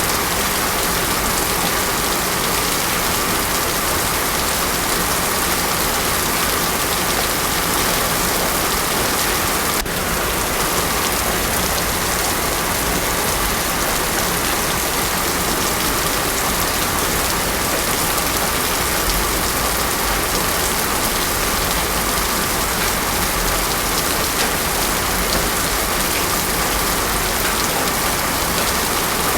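Heavy rain falling steadily on a road surface, a constant dense hiss with no thunder.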